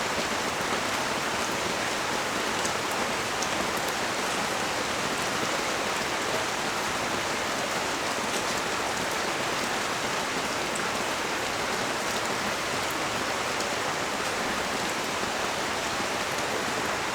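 Steady rain falling, an even hiss of water with scattered ticks of single drops.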